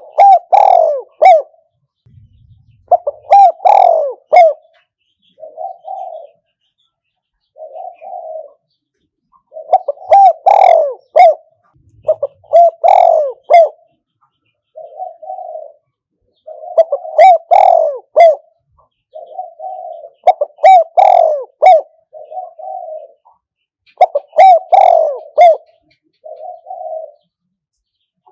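Spotted dove cooing over and over, as a decoy bird calling to lure wild doves. Loud phrases of several notes come every three to four seconds, with a softer single coo between them.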